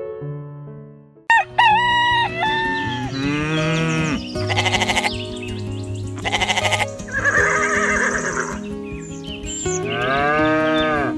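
Farm-animal sound effects over background music, starting suddenly about a second in. The calls include a rooster crowing and other livestock calls, with two short rapidly pulsing calls in the middle.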